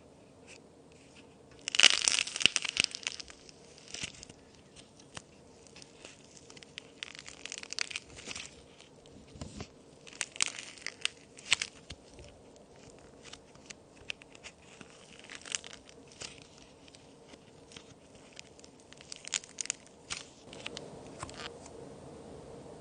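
Plaster-and-clay toy cookies being broken and crumbled: clusters of sharp, crisp crackles, the loudest about two seconds in, with further bursts every few seconds.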